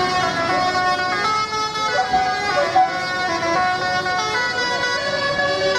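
Several horns and siren-like wailing tones sounding together from passing decorated tractors, held notes shifting in pitch every fraction of a second.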